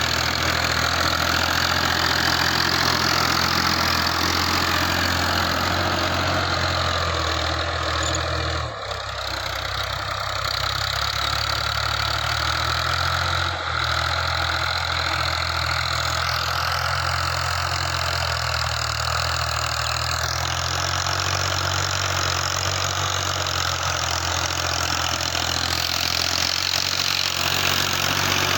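Tractor 480's diesel engine running steadily at a low, even speed, with a brief dip in the sound about nine seconds in and a smaller one about fourteen seconds in.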